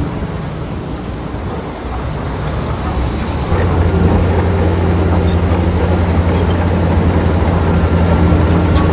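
Heavy diesel engine of an earthmoving machine running with a steady low drone, growing louder about three and a half seconds in and holding at the higher level.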